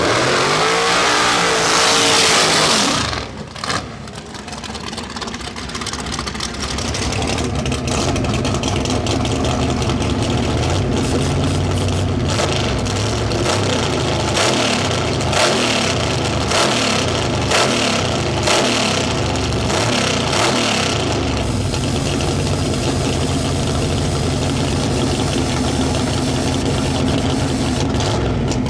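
Drag race car engines: a loud high-revving engine sweeping up and down in pitch cuts off about three seconds in, then an engine idles steadily with repeated short throttle blips.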